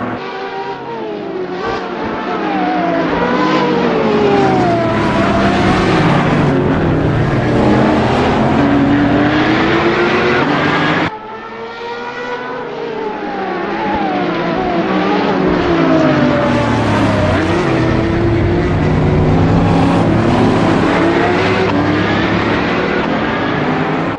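High-performance car engines at racing speed, their pitch rising and falling as they rev up and shift through the gears. The sound cuts off abruptly about eleven seconds in and picks up again quieter, building back to full loudness.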